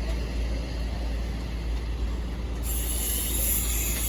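Road noise inside a moving car: a steady low rumble from the engine and tyres, with a hiss that grows louder about two and a half seconds in.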